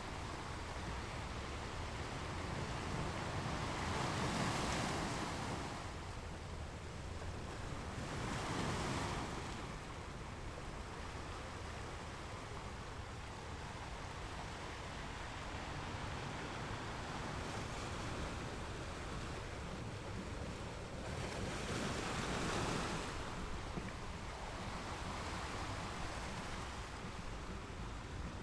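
Ocean waves washing onto a shore: a steady wash of surf with a wave breaking and surging louder about four seconds in, again near nine seconds, and once more about twenty-two seconds in.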